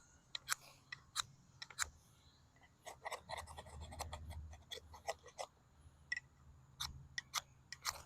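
An O1 tool-steel puukko knife scraped down a ferrocerium rod in a series of short, sharp scraping strikes, denser in the middle, throwing sparks.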